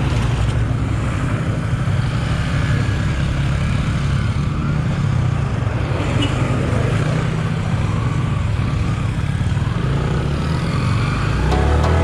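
Motorcycle engine running on the move, with a steady low rumble and a pitch that drifts up and down. Music comes in near the end.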